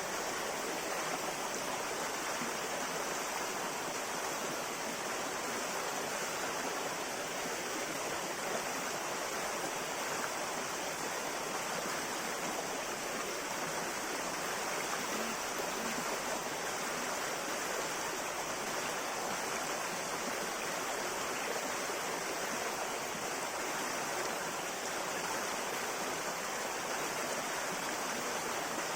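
River water flowing steadily over rocks: an even, unbroken rush.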